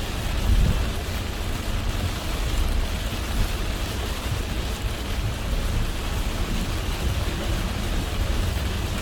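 Heavy rain on a moving car, with a steady low rumble of tyres and road running under the even hiss of the rain. The rumble swells briefly about half a second in.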